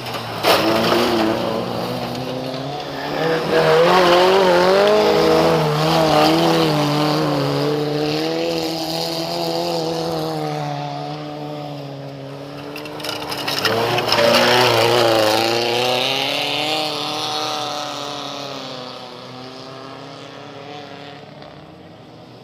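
Small-displacement (1200–1800cc) race cars running at high revs on a circuit, their engine notes rising and falling with gear changes. The engines swell loudest about four seconds in and again near the middle, then fade away.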